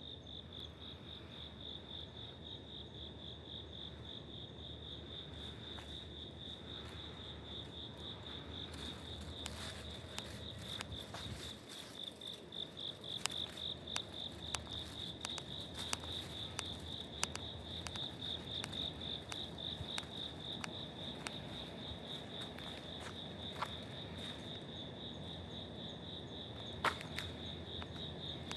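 A cricket singing: one steady, fast-pulsing high trill that does not let up. Scattered light clicks join it from about a third of the way in, with one sharper click near the end.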